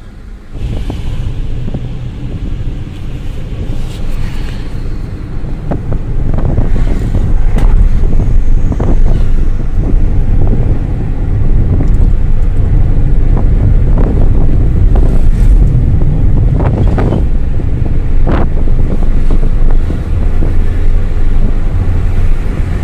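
Maruti Celerio car driving, heard from inside the cabin: a steady low engine and road rumble with wind buffeting the microphone. It grows louder about half a second in and again several seconds later as the car gathers speed, with scattered short clicks and knocks.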